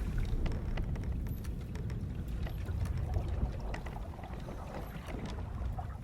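Sailing-ship ambience: a steady low rumble of sea and wind with many short wooden creaks and knocks from the ship scattered through it.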